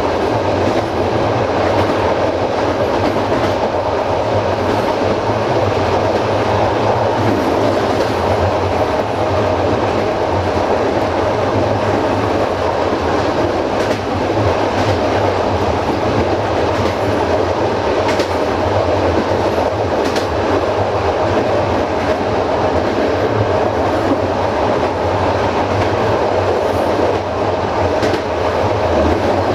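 Passenger coach running along the track with a steady rolling rumble of wheels on rail and occasional clickety-clack as the wheels pass over rail joints.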